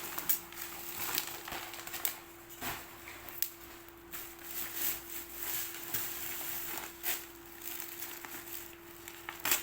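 Packaging being handled as gifts are unwrapped: irregular rustling and crinkling with scattered light clicks. A steady faint hum runs underneath.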